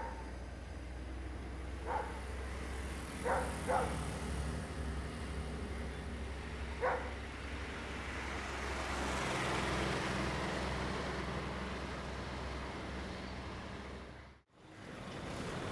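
Diesel train running past: a steady low engine hum with a swell of running noise around ten seconds in, and a few short sharp sounds in the first seven seconds. It cuts off suddenly near the end.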